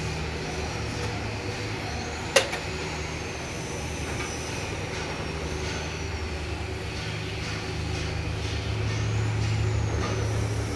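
A heavy engine running steadily with a low, pulsing hum, with one sharp click about two seconds in.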